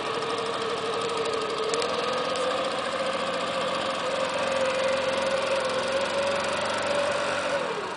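Motorboat engine running steadily, its pitch creeping up slightly, then dropping and fading away near the end as the boat passes.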